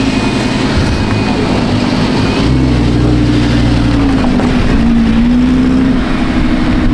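Sports car engine running at a loud, steady idle. Its pitch lifts slightly a couple of times as the throttle is touched.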